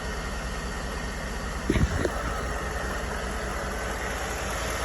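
2011 Ford F-150 V8 engine idling steadily and evenly with no misfire, just after an exhaust valve problem was repaired. A brief louder noise comes about two seconds in.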